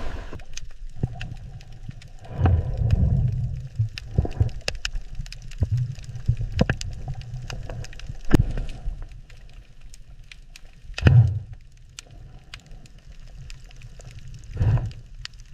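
Underwater ambience: a scatter of sharp clicks and crackles over low, bubbling rumbles that swell up a few times, loudest about three seconds in and again near eleven seconds.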